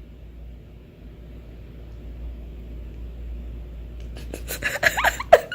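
Steady low hum of room tone, then, about four seconds in, a short run of clicks and rustling with a brief voice sound.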